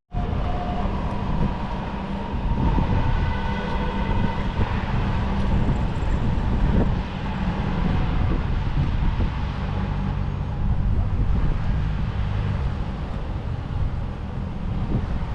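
Train running on the track: a steady low rumble with faint high tones over it.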